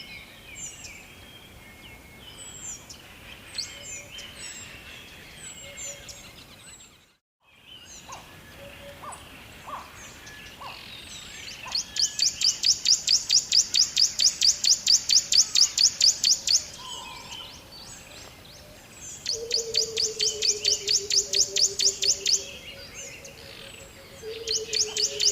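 Wild birds singing: scattered high chirps, then a loud, rapid trill of about seven notes a second that comes three times and lasts several seconds each time. A low, drawn-out falling tone sounds under the second and third trills, and the sound drops out briefly about seven seconds in.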